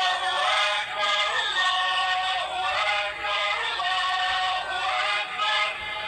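Arabic children's song: sung voices carrying a melody over musical backing, with held notes changing every half second or so.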